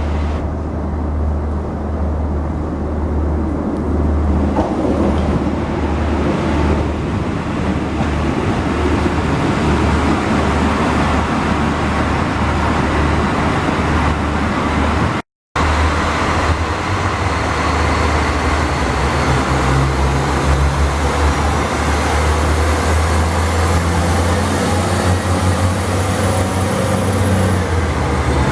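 Diesel train engine running with a steady low hum and rumble. The sound cuts out completely for a moment about halfway through.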